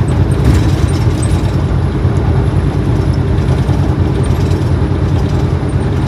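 Steady, deep road and engine noise inside a moving car's cabin.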